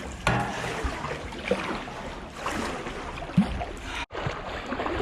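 Water splashing and trickling around a paddled canoe, with paddle strokes in the river and small knocks on the hull. The sound cuts out briefly about four seconds in.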